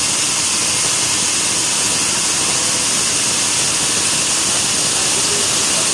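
Sawmill machinery running steadily: an even, hissing mechanical noise with no breaks or changes.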